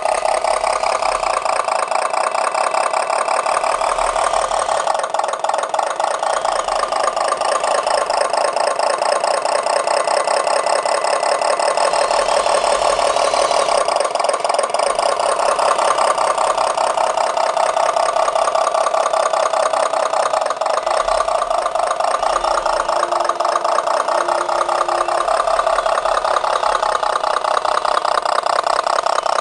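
Small motor running steadily on a radio-controlled Tonka dump truck, a continuous buzzy rattle with a fast even pulse and a pitch that wavers slightly.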